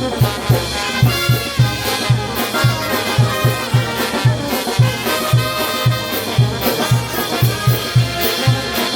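Brass band playing: trumpets and trombones carry the melody over a quick, steady bass drum beat.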